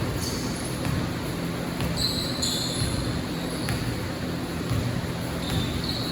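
Basketball game on a court: a ball bouncing, a few short high sneaker squeaks, and steady background noise.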